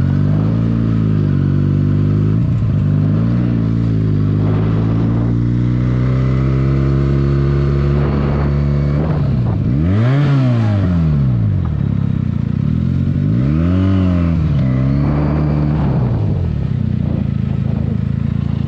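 Benelli 300S motorcycle's parallel-twin engine running under way, mostly at a steady pitch. It is revved up and let back down about halfway through, and again a few seconds later.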